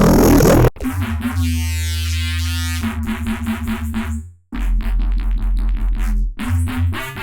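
Vital software synthesizer bass presets playing electronic bass-music phrases. A dense, loud sound cuts off abruptly under a second in. A held low bass with a sweeping top follows, then fast stuttering repeated notes, broken by brief gaps around four and six seconds in.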